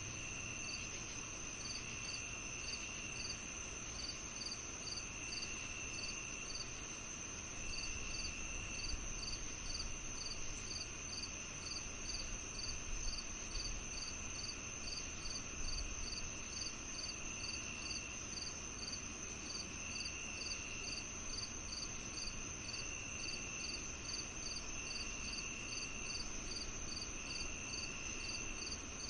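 Summer-evening insect chorus: crickets chirping steadily at about three chirps a second over a continuous high trill, with another insect's longer, lower buzzing phrases repeating every few seconds.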